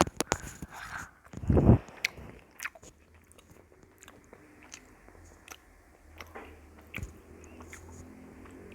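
A person biting and chewing food close to the microphone: scattered sharp crunchy clicks, with one louder low thump about a second and a half in.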